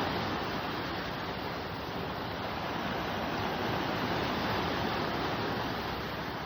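Sea waves washing ashore after a typhoon, a steady rushing that swells and eases in slow surges, with wind.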